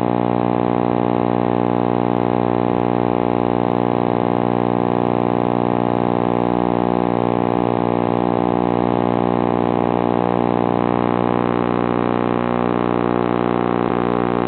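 A steady motor drone, holding one pitch throughout.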